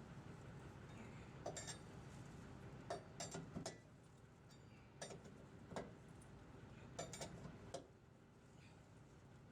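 Light metallic clicks and clinks in several short clusters over a quiet background: small hard metal parts knocking together while a vehicle's tyres are being changed.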